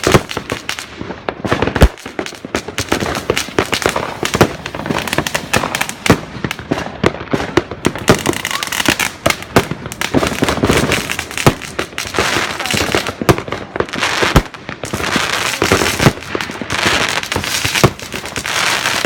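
Fireworks going off: a dense, irregular run of bangs and crackling pops, several a second, with no pause.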